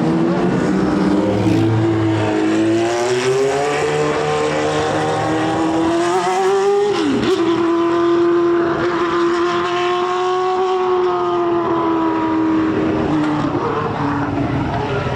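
Racing car engine running hard on track, its pitch climbing over the first few seconds. A brief sharp drop in pitch about seven seconds in, then a long steady note that eases slightly near the end.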